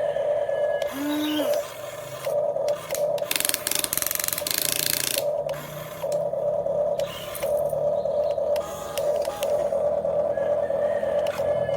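Small electric motors and gearboxes of a radio-controlled excavator whining in short on-off runs as its controls are worked. A rushing hiss joins in about three seconds in and lasts about two seconds.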